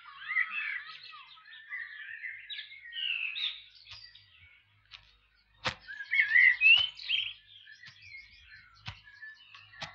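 Songbirds chirping and singing in quick, varied phrases, with a few sharp clicks, the loudest about halfway through.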